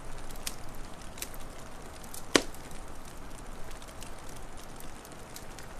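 Wood fire crackling over a steady hiss, with a few small snaps and one loud pop a little over two seconds in.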